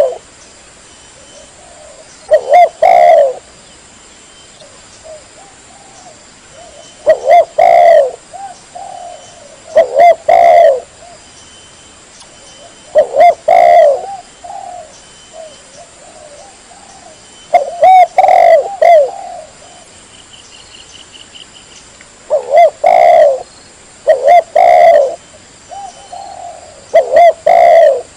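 Spotted dove cooing: short, loud coo phrases repeated every few seconds, about eight in all.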